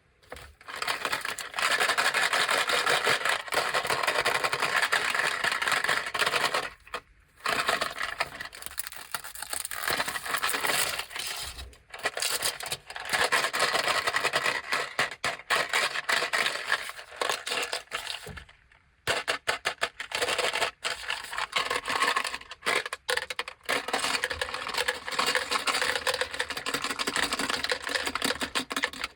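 Plastic snack packaging of Anpanman Korokoro Ball Choco crinkling and rustling as it is handled and opened, in long stretches broken by a few short pauses.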